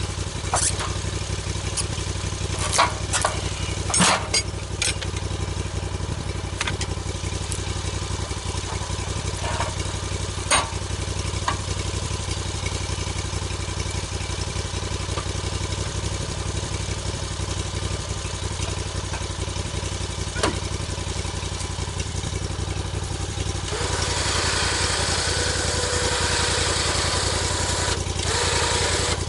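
An engine running steadily, with several sharp knocks in the first few seconds and a louder rushing hiss for about four seconds near the end.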